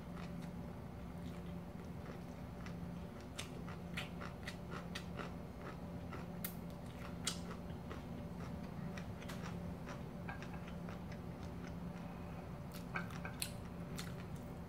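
Close-up eating sounds of a person chewing a large hand-rolled seaweed rice roll (gimbap): scattered short mouth clicks and soft crunches, over a steady low hum.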